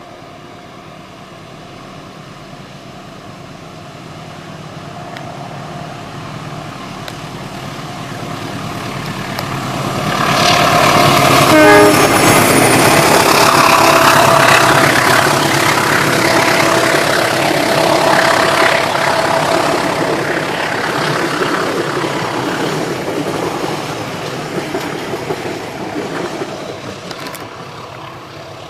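A train approaching, running past close by and then moving away. Its noise builds slowly for about ten seconds, is loudest for the next dozen or so, then fades near the end.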